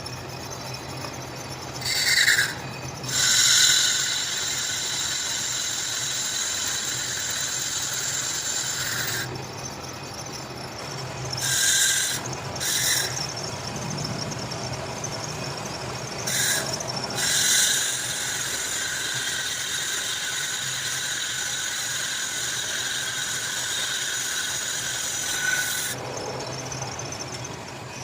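Cutting tool squealing against metal during machining. The squeal comes in stretches: a short burst about two seconds in, a long run to about nine seconds, two short bursts around twelve seconds, and a long run from about sixteen seconds that stops shortly before the end. Under it runs a steady low machine hum.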